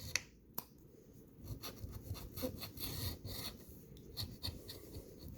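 A coin scratching the coating off a scratch-off lottery ticket in many short rasping strokes, with two sharp clicks near the start.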